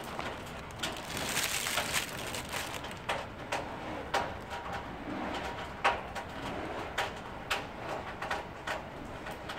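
A bird cooing low about five seconds in, amid a run of sharp clicks and taps.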